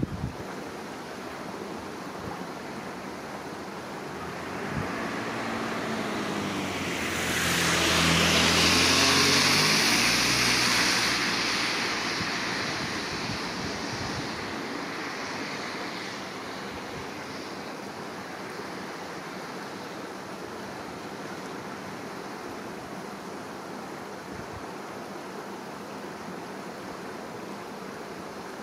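Steady rush of river water. Over it a motor vehicle passes, building to its loudest about eight to ten seconds in and then fading away.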